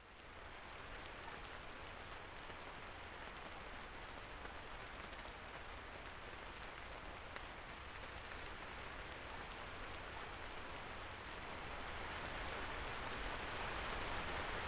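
Heavy rain falling, a dense even hiss of drops. It swells in at the start and grows slowly louder.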